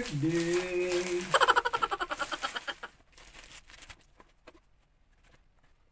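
A voice singing or humming long held notes, breaking into a quick pulsing run about a second and a half in and fading out about three seconds in. After that come faint clicks and rustles of a cardboard camera box and its plastic wrapping being opened.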